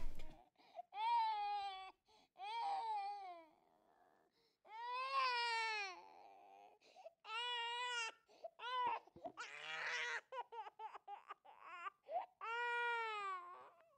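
A baby crying in a series of high-pitched wails, each about a second long and rising then falling in pitch, with short catches of breath between them.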